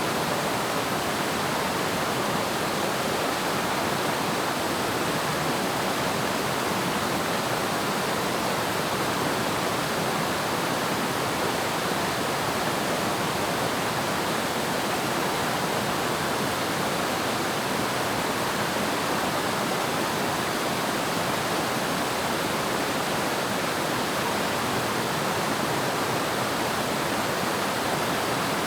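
Waterfall: a steady, even rush of falling water, strongest in the middle range, unchanging throughout.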